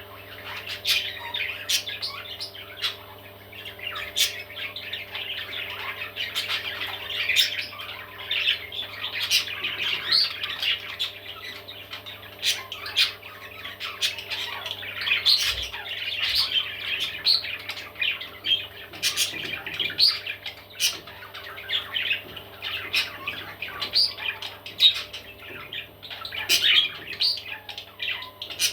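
Baby parrots squawking and chattering continuously, many short sharp calls overlapping one another, over a steady low hum.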